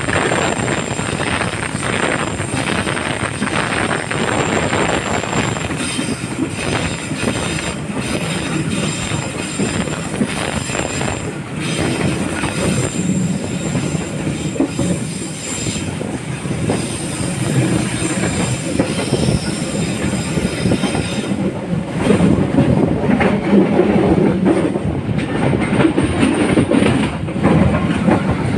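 Serayu passenger train running straight through a station without stopping: a continuous rumble of wheels on the rails, growing louder and deeper about three quarters of the way through.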